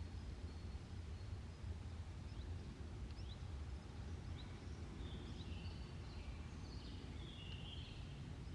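Outdoor ambience: a steady low rumble with small birds chirping and calling in short, quick notes throughout.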